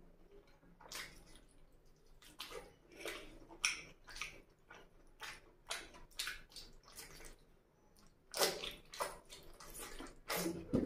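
Close-up wet chewing and lip-smacking of a mouthful of oily mutton curry and rice, with squelching as a hand squeezes the curry and rice together: a run of short, irregular wet clicks and smacks, louder about eight seconds in.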